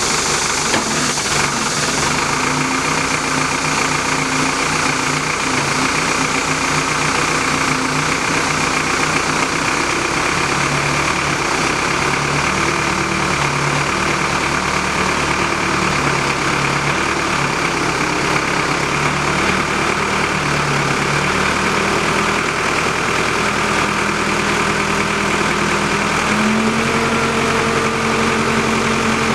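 Tractor engine running steadily, powering the auger or pile driver, its speed shifting several times and stepping up near the end.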